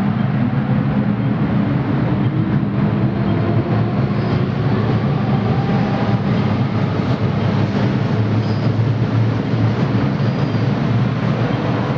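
Steady low hum and rumble inside an MTR M-Train carriage on the Kwun Tong line.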